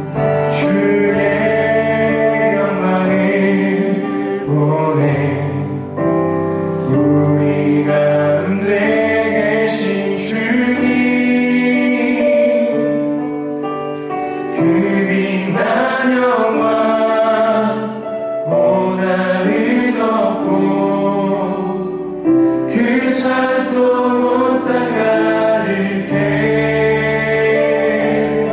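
Live contemporary worship music: several vocalists singing a Korean worship song together over keyboard and band accompaniment, in long held lines.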